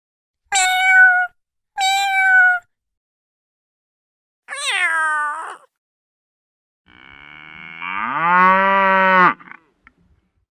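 A series of separate animal calls with silence between them: two short, even calls, then a call that falls in pitch, then a longer, lower call that rises and holds before cutting off near the end.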